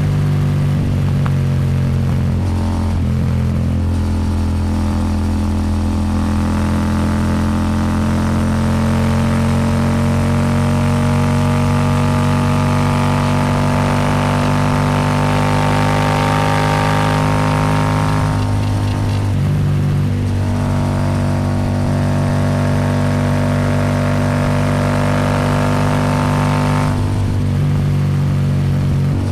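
Royal Enfield Super Meteor 650's parallel-twin engine running through an aftermarket slip-on exhaust under throttle, with wind rush over it. The engine note climbs slowly for about ten seconds, then dips briefly about two-thirds in and again near the end.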